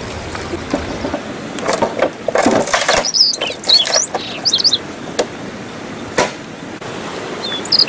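Small birds chirping in short, quick, high calls, in a flurry a few seconds in and again near the end, amid several brief rustles or knocks.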